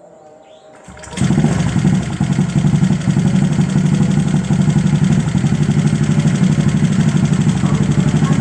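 Honda Vario 150 scooter's single-cylinder engine, bored up and fitted with an ABF Racing Standar Racing V2 aftermarket exhaust, starting about a second in and then idling steadily with a pulsing exhaust note.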